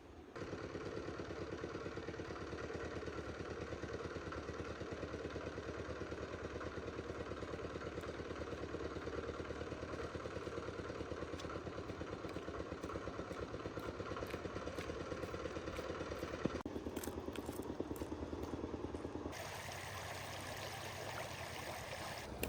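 An engine running steadily with a rapid, even pulse. The sound changes abruptly twice in the last few seconds.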